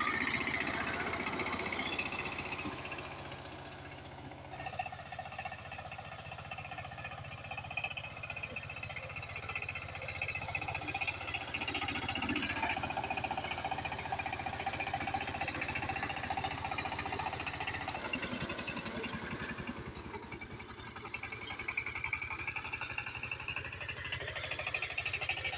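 Power tiller's diesel engine running with a rapid, even firing beat, its pitch shifting a little a few times.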